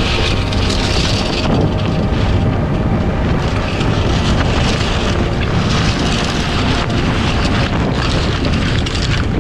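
Wind buffeting the microphone, with water rushing along the hull of a small sailboat under way: a loud, steady rush that swells and eases.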